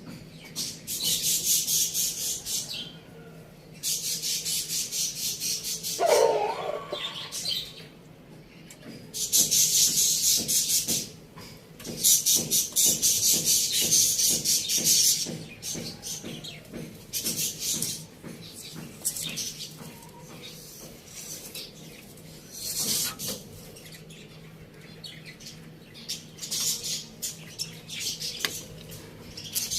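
Small birds chirping in repeated high, rapid bursts, each lasting a second or a few seconds, with one short lower call a few seconds in.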